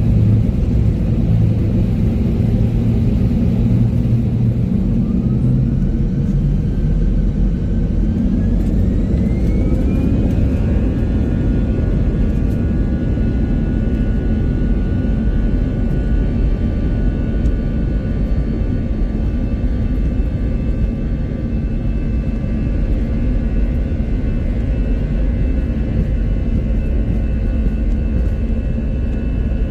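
Jet airliner engines spooling up for takeoff, heard from inside the cabin: a loud low rumble under a whine that climbs in pitch for about five seconds, then holds steady.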